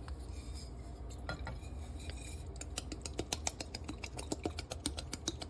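A kitchen utensil clinking against a mixing bowl while sauce ingredients are measured in and stirred: a few scattered clinks, then from about halfway a quick run of light clinks, several a second.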